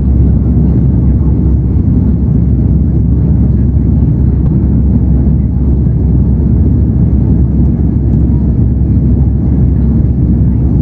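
Steady low rumble inside the cabin of an Airbus A330-300 climbing after takeoff: its two Pratt & Whitney PW4168A turbofans at climb thrust together with airflow noise.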